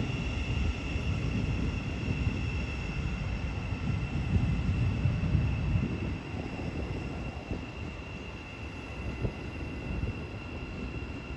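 A Thameslink Class 700 electric multiple unit pulling into the platform with a low rumble that eases off after about six seconds. A steady high-pitched tone runs throughout.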